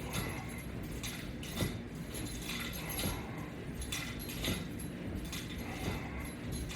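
Metal strap and latch-bar hardware clinking and rattling in a loose rhythm, about once a second, as each crunch pulls on the straps.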